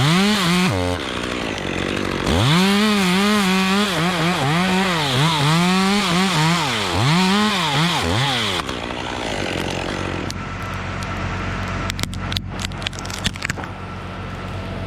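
Gasoline chainsaw running at high revs, its pitch swooping up and down over and over as the throttle is worked, then cutting off about eight and a half seconds in. A few seconds later comes a cluster of sharp knocks.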